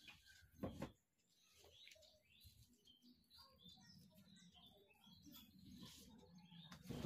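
Faint bird chirps in the background, with a brief, louder thump less than a second in and another near the end.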